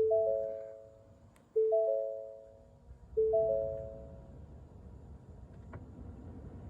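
2019 Ford F-250's dashboard warning chime: a three-note rising chime repeated three times, about a second and a half apart, each fading away, sounding after the start button is pressed on a truck that won't start. From about halfway through, a steady low rushing noise grows underneath, with a single click near the end.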